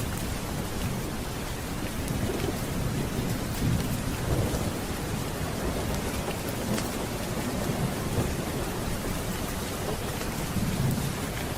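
Steady heavy rain, with low thunder rumbling in several rolling swells through the storm.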